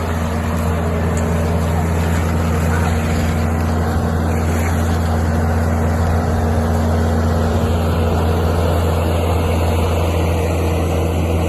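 An engine running steadily at idle: an even, low drone that does not change.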